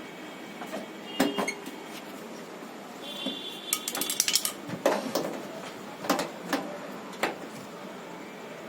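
Metal clinks and light knocks of tools and hardware being handled: single sharp strikes, with a quick rattling cluster about halfway through.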